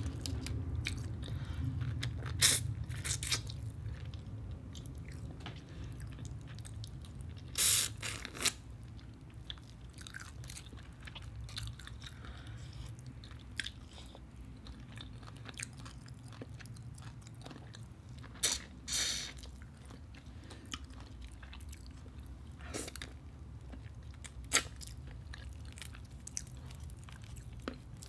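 Close-up eating sounds: chewing and biting into boiled shrimp, with a handful of short, sharp crackles as shrimp shells are peeled apart by hand.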